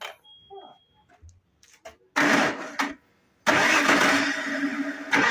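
Audi 2.8 V6 engine being started. The starter cranks briefly about two seconds in and stops, then the engine fires and settles into running. It runs without the knock that came from the cracked automatic-transmission flexplate, which has now been replaced.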